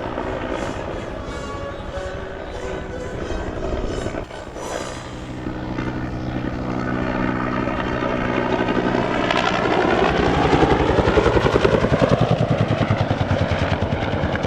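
Vietnam-era two-blade Bell helicopter with a Lycoming T53 turboshaft flying: turbine whine over the rotor beat, growing louder about ten seconds in, with a fast, even blade slap as it comes close.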